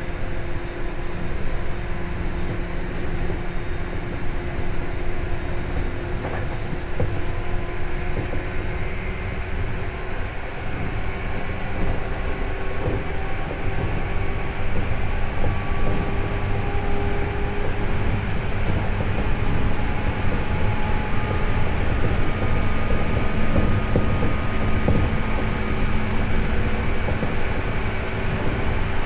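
Seibu 2000 series electric train running on the line, heard from inside the car: a steady rumble of wheels on rail with faint motor and gear tones that drift slowly upward in pitch as the level gradually rises.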